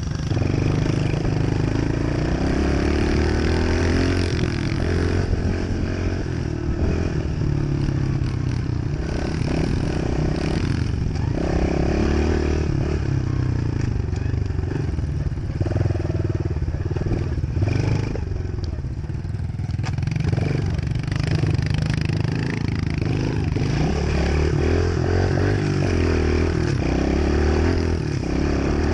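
Dirt bike engine running, its pitch rising and falling over and over as the throttle opens and closes.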